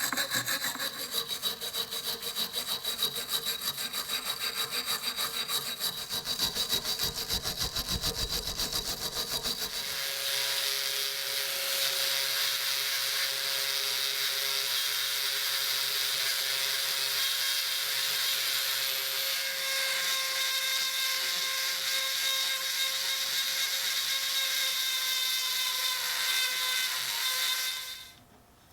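Rapid back-and-forth rubbing strokes of a hand tool on the rusty knife for about ten seconds. Then a small electric power tool runs steadily with a whine and cuts off near the end.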